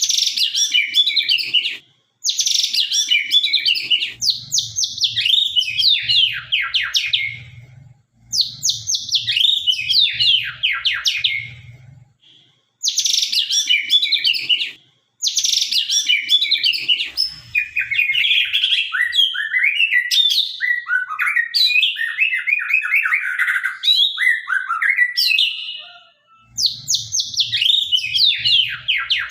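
White-rumped shama of the Sabang line singing in full song: loud, varied phrases of rapid falling notes and whistles, in runs of a few seconds broken by short pauses.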